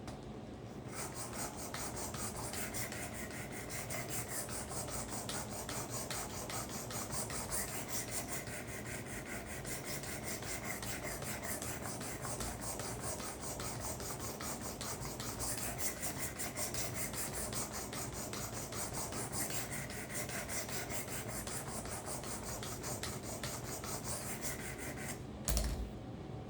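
Coarse diamond sharpening stone on a guided knife-sharpening system rasping along a karambit blade's edge in continuous back-and-forth strokes, starting about a second in. It stops near the end with a short thump.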